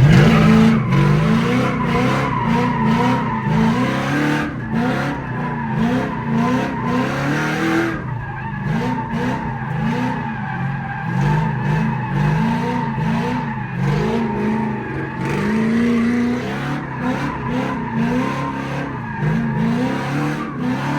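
Ford Mustang S197 drifting. Its engine revs rise and fall over and over as the driver works the throttle, with the rear tyres squealing steadily throughout.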